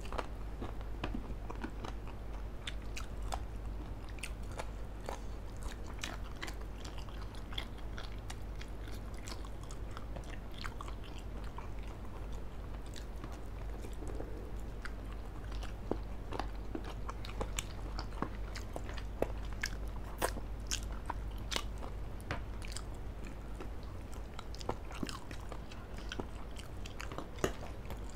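Close-miked eating: two people biting and chewing grilled chicken and fried instant noodles, with irregular sharp mouth clicks scattered throughout. A steady low hum runs underneath.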